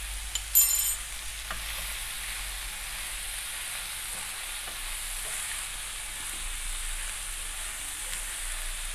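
Diced chicken and onions sizzling in oil in a nonstick frying pan, with the steady hiss of frying and light scraping as a wooden spatula stirs them. A brief sharp knock about half a second in.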